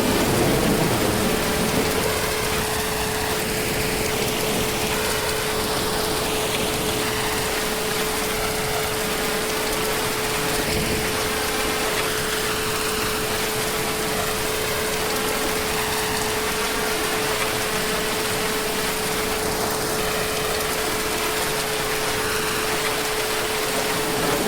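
Heavy rain falling steadily, an even hiss, with a faint steady hum under it throughout and a brief low rumble in the first second or two.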